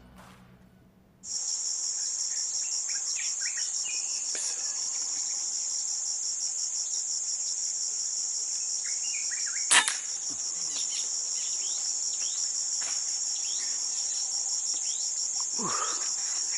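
A steady, high-pitched, finely pulsing drone of insects starting abruptly about a second in, with short bird chirps scattered through it. A single sharp crack sounds about halfway through.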